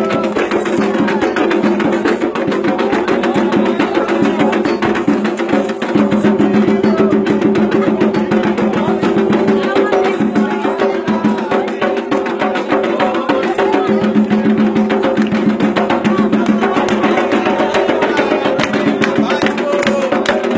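Candomblé ritual music: fast, steady hand drumming with a sharp woody click in the beat and group singing over it.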